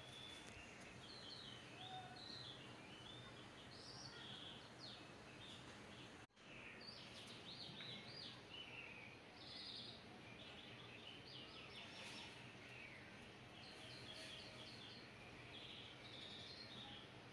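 Faint birdsong: many short chirps and twitters over a low steady hiss, with a brief dropout about six seconds in.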